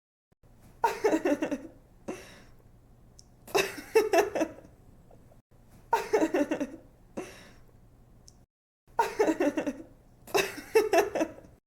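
A young woman laughing in five short bursts of rapid giggles, each about a second long, with pauses between them. A faint low hum runs underneath.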